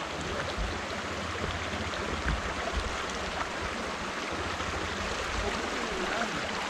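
Steady rushing noise with uneven low rumbling gusts: wind buffeting the microphone and tyre noise from a bicycle being ridden along a rough road.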